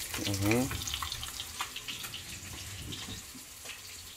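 Fish fillets frying in butter in a skillet: a steady sizzle with scattered pops and crackles.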